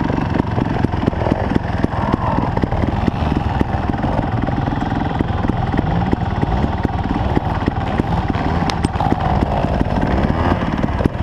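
Trials motorcycle engine idling steadily close by, a continuous low putter of exhaust pulses.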